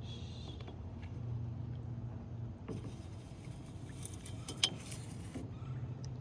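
Kayak paddling on the water over a steady low hum, with a few sharp knocks, the loudest about four and a half seconds in, typical of a paddle striking the kayak's hull.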